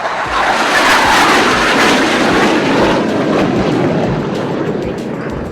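Jet engine noise of a Surya Kiran BAE Hawk jet trainer making a low pass: it swells quickly to a loud rush, then drops in pitch and fades slowly as the jet goes past.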